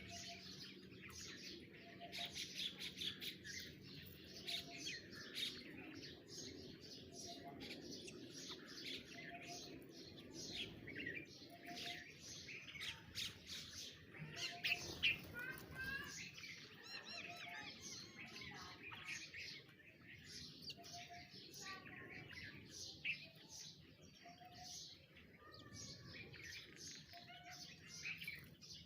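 Many birds chirping and twittering at once, dense overlapping calls, with a short lower note repeating about every one to two seconds.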